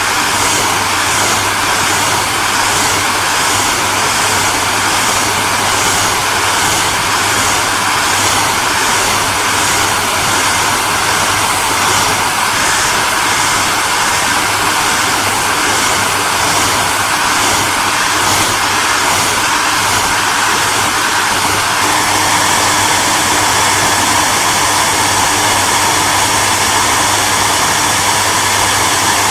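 Hair dryer running continuously: a steady, even rush of air over a low motor hum, with a slight change in texture about two-thirds of the way through.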